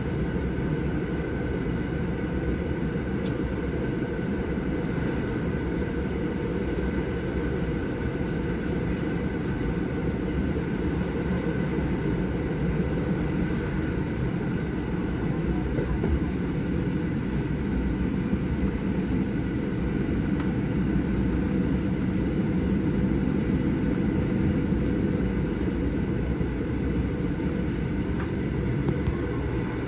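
Moving passenger train heard from inside the carriage: a steady low rumble of the running train with a faint steady whine above it, growing a little louder past the middle.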